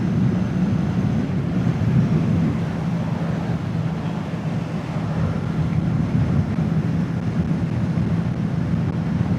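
Kawasaki Z650's parallel-twin engine running steadily at road speed, heard from the rider's helmet camera along with steady road and wind noise.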